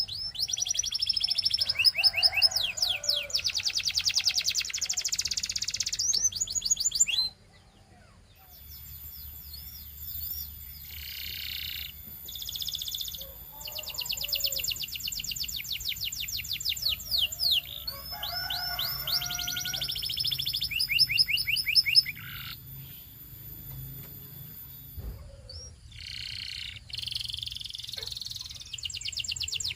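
Canary singing a song of rapid trills, phrase after phrase of fast repeated notes, with a brief pause about a quarter of the way in.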